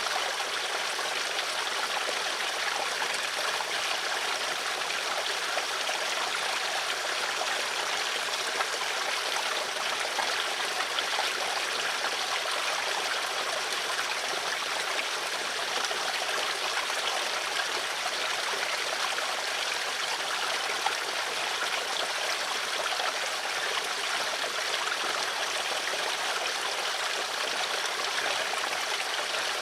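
Water flowing steadily, a continuous even rush with no breaks.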